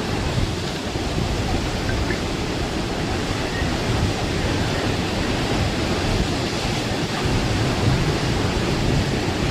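Heavy rain pouring down, a steady, dense, even hiss with no let-up.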